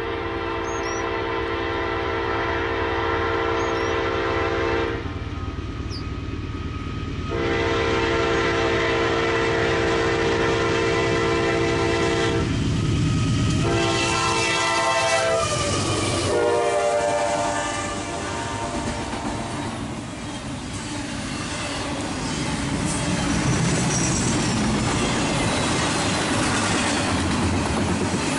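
Norfolk Southern freight locomotive sounding its air horn in three long blasts, the last one dropping in pitch as the engine passes. Then the double-stack intermodal cars rumble and clack steadily past on the rails.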